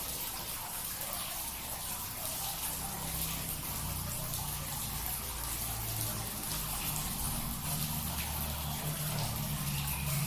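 Steady running, trickling water with a low hum underneath.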